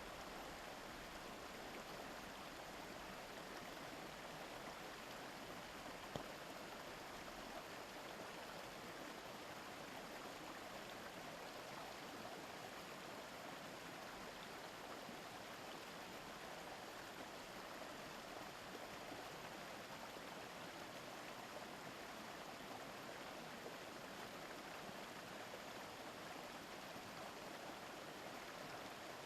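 A river babbling over rocks: a steady, even rush of running water, with one brief click about six seconds in.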